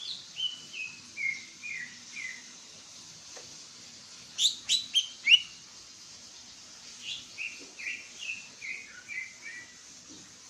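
Caged green leafbird (cucak ijo) singing: a run of clear whistled notes stepping down in pitch, then a burst of four or five loud, sharp notes about halfway, then another descending run of whistles.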